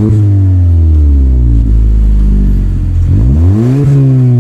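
Mazda CX-5's turbocharged 2.5-litre SkyActiv four-cylinder revving through a CorkSport 80mm stainless axle-back exhaust with pass-through resonators. The revs fall away slowly for about three seconds from a peak, then climb sharply again about three seconds in and fall off once more.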